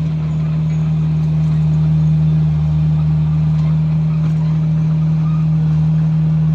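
Komatsu bulldozer's diesel engine running steadily under work, a loud, even, low drone.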